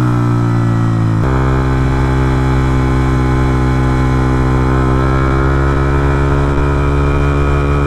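Suzuki GSX-R125 motorcycle's single-cylinder engine idling steadily, its note shifting slightly about a second in.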